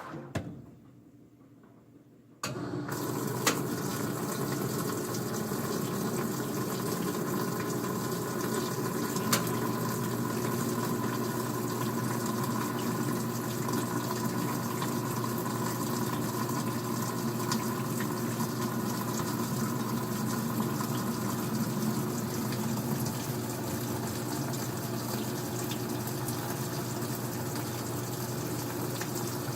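Old-style front-loading washing machine taking in water. After a brief pause, the inlet valve opens with a sudden start about two and a half seconds in, and water then rushes steadily into the drum with a constant hum.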